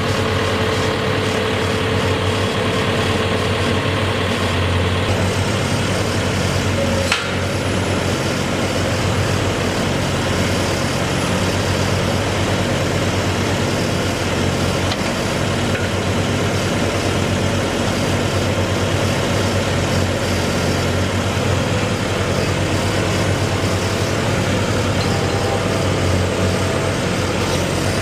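Heavy engine running steadily with a constant low hum, and one short sharp click about seven seconds in.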